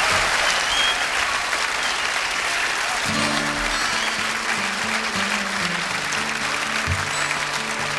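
Audience applauding, with guitar notes starting up about three seconds in.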